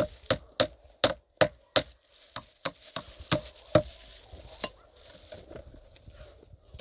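A rapid series of sharp knocks, about three a second, as something is struck over and over. The strikes stop a little past halfway.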